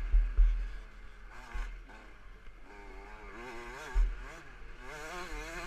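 KTM 65 SX two-stroke motocross engine revving up and down in pitch as the bike is ridden, with heavy low thumps near the start and about four seconds in.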